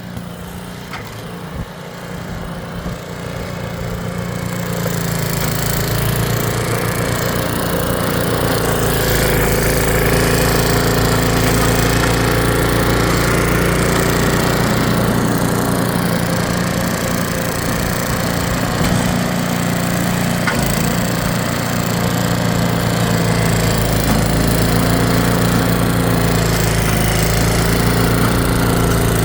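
Snowblower's small gasoline engine running steadily under load, getting louder over the first five seconds and then holding at a constant pitch.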